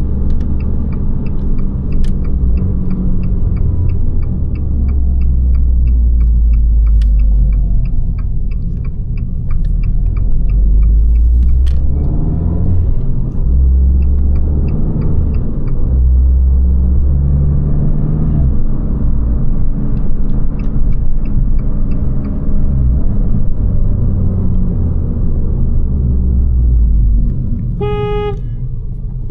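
Abarth 595 Competizione's turbocharged 1.4 T-Jet four-cylinder with Record Monza exhaust, driven hard: the engine note rises and drops several times through gear changes. A regular quick ticking runs for the first ten seconds or so. A short horn beep sounds near the end, as the engine eases off.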